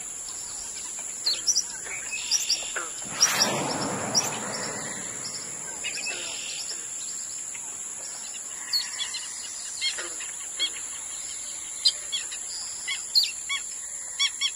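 Birds chirping and calling in many short, quick notes over a steady high-pitched hiss, with a rushing noise that swells and fades about three seconds in.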